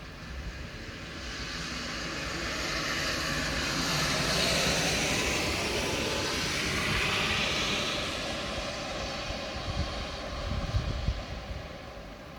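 A vehicle passing on a wet road: its hiss swells over several seconds, bends in pitch as it goes by, then fades. A few low thumps follow near the end.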